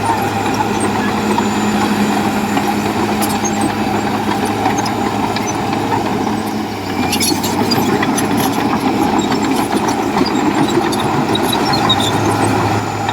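Bulldozer's diesel engine running steadily, its level dipping briefly about seven seconds in, with a few sharp knocks.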